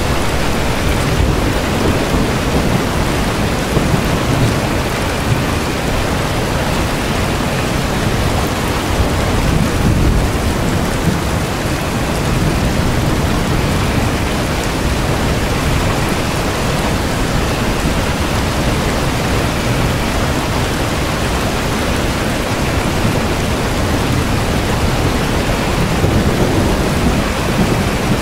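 Steady rain, an even hiss with a deep rumble underneath that holds level throughout.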